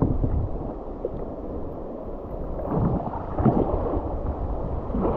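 River water rushing and splashing around a kayak running a rapid, with wind rumbling on the microphone. A few louder splashes about three seconds in.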